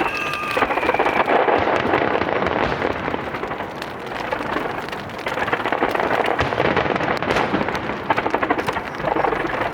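Dense, rapid crackling from a fireworks starmine, mixed with rain pattering, with a faint falling whistle in the first second.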